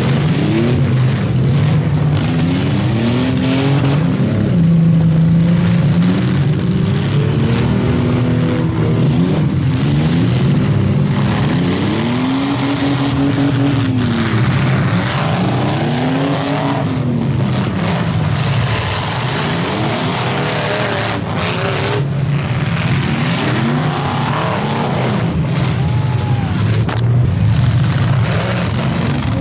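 Several demolition derby cars' engines revving up and easing off again and again in rising and falling sweeps, over a steady low engine drone. A few sharp bangs of cars colliding are heard now and then.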